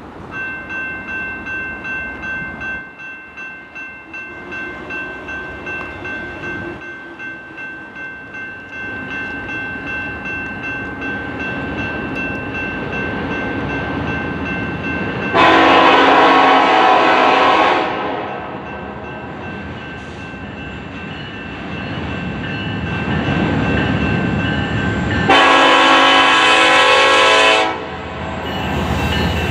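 Freight train approaching, its rumble growing steadily louder, with a bell ringing in fast pulses of about two a second at the start. The diesel locomotive's horn sounds two long blasts, one about halfway through and one near the end.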